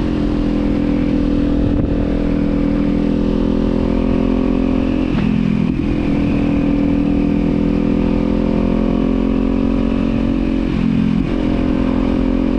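Kawasaki Z400's parallel-twin engine and exhaust under way at a steady cruise. The engine note dips briefly and picks back up twice, about five seconds in and again near eleven seconds, as the throttle eases and reopens.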